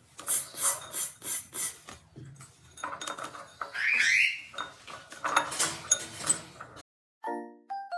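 A parrot splashing in its bathwater, beating its wings in a run of quick splashes with a short call about halfway through. The splashing stops and a tinkling glockenspiel tune starts near the end.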